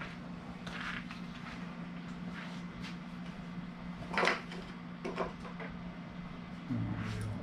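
Scattered knocks and clicks of parts and screws being handled while fitting a duct booster fan, the loudest knock about four seconds in, over a steady low hum; a short low hum comes in near the end.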